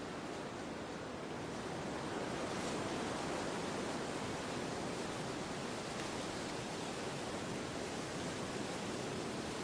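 Steady wind blowing, an even rushing noise that swells slightly about two seconds in.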